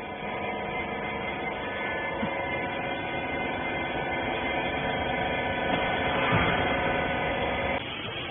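Electric machine motor running with a steady hum of several fixed tones, cutting off abruptly near the end.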